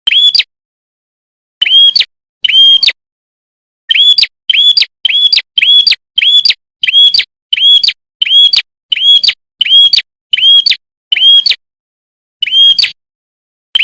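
A prinia (prenjak) calling: the same short, sharp chirp repeated over and over, nearly two a second, with a couple of brief pauses. Each chirp is a clear note that rises and falls quickly, loud against silence.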